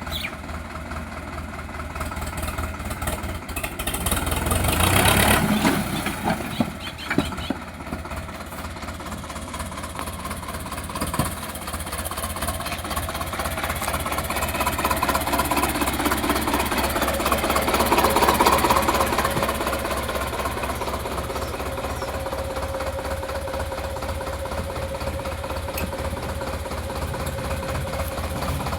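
Sonalika DI 750 tractor's diesel engine running with a steady, fast low chug. It grows louder about five seconds in, and again more slowly around eighteen seconds.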